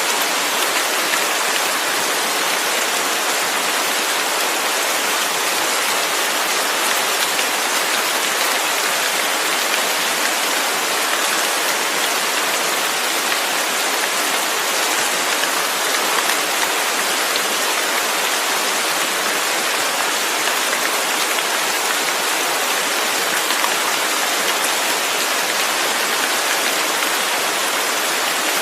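Steady heavy rain falling: a dense, even hiss of drops with no breaks or distinct impacts.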